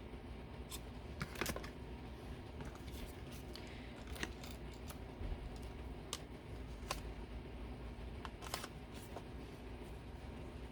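Scattered light clicks and taps of craft materials being handled at a table, about seven or eight spread irregularly, over a steady low hum.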